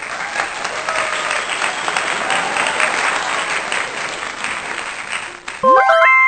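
Applause with many hands clapping, giving way near the end to a short electronic sound effect of quick upward-stepping tones.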